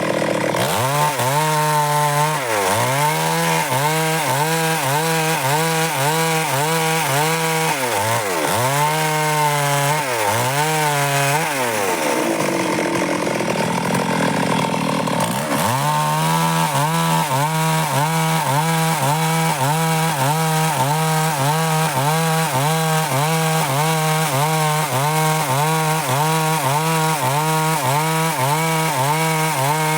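Stihl MS 382 two-stroke chainsaw running at high revs while cutting dry wood. In the first half the engine pitch dips and comes back up several times. From about the middle it holds steady, then falls away near the end.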